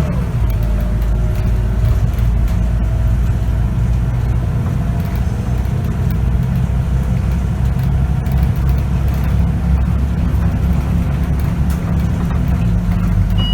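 Scania K94UB bus's diesel engine running steadily, a loud low drone heard from inside the passenger cabin.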